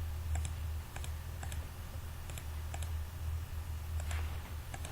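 Irregular clicking at a computer, about seven short clicks or click pairs spread across a few seconds, over a steady low hum.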